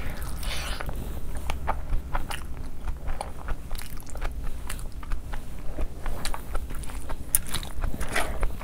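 Close-miked chewing of a handful of fried rice and gravy eaten by hand: wet mouth and lip smacks and many short, irregular clicks.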